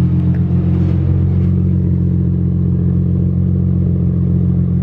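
Infiniti G37 sedan's VQ-series V6 idling steadily through a newly fitted RZG single-exit exhaust, loud inside the garage. The pitch stays level, with no revving.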